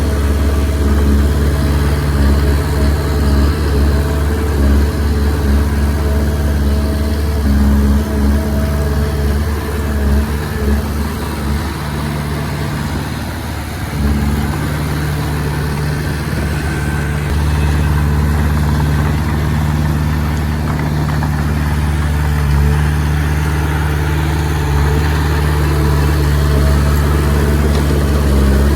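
Diesel engine of a Komatsu D20P bulldozer running steadily, dropping briefly about halfway through and then picking back up.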